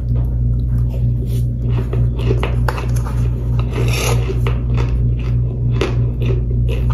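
Close-up crunching and chewing of toasted powder chunks: irregular crisp, gritty crunches, over a steady low hum.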